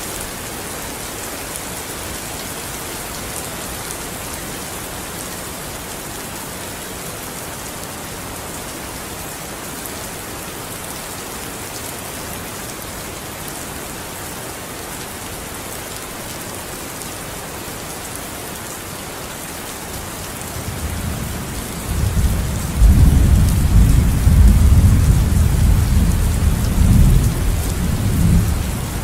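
Steady rain falling, an even hiss. About twenty seconds in, a deep rumble of thunder builds, rolls loudly for several seconds and begins to fade near the end.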